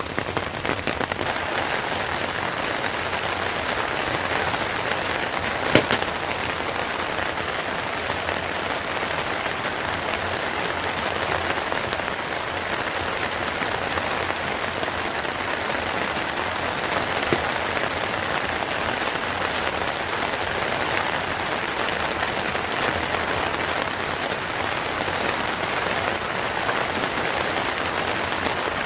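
Steady rain falling, an even hiss of drops, with two sharp single pops, about six seconds in and again about seventeen seconds in.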